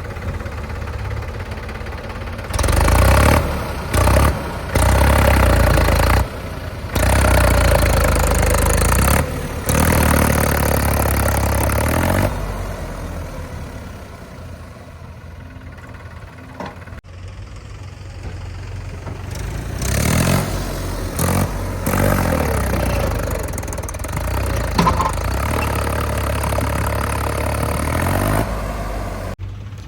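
Diesel engine of heavy machinery running, revving up and down repeatedly, with sudden jumps in loudness in the first half and a quieter spell near the middle.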